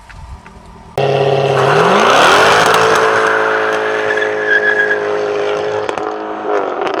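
Jaguar F-type R's supercharged 5.0-litre V8 and active exhaust: the engine comes in suddenly about a second in, revs up steeply and is held at high revs for several seconds, then eases off slightly near the end.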